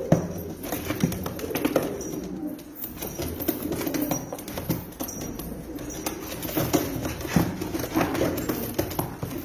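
Pigeons cooing continuously, mixed with scattered sharp clicks and knocks.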